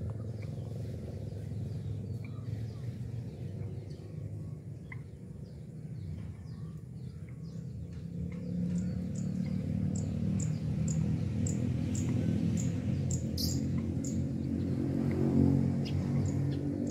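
Small birds chirping, with a run of short high chirps about two a second in the second half, over a steady low rumble.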